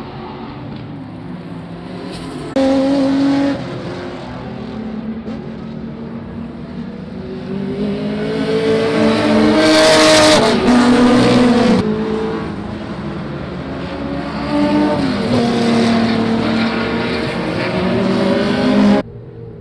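Historic racing car engines at full throttle on the track, their pitch rising and falling through the gears as cars pass. The sound jumps abruptly several times where clips are cut together. The loudest pass comes about ten seconds in.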